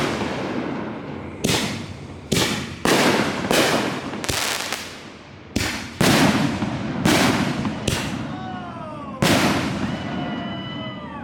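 Consumer aerial fireworks going off in a quick string of about a dozen loud booms, each fading away. Near the end a falling whistle descends under the last bursts.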